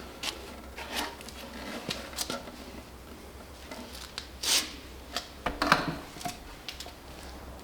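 Scattered light knocks, clicks and rubbing of wood being handled, with two louder brief scrapes about halfway through.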